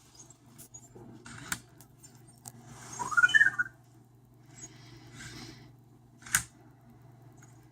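Anki Vector robot at work: a few sharp mechanical clicks and short whirring rustles, with one short rising electronic chirp about three seconds in.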